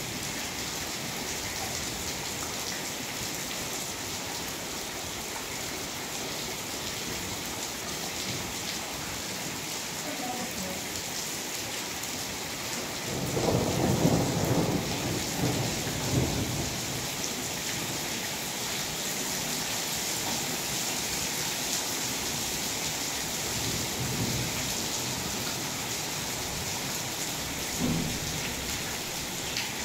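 Steady rain falling on a stone-paved courtyard, an even hiss throughout, with a louder low rumble for a few seconds about halfway through.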